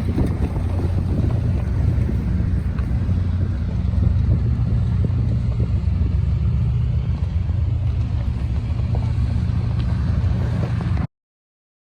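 Diesel locomotive rumbling steadily, with a deep, even engine drone; the sound cuts off abruptly near the end.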